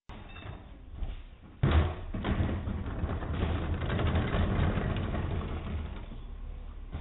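McNeilus garbage truck running, with a sharp clunk about a second and a half in and then several seconds of louder engine and mechanical noise that eases back near the end.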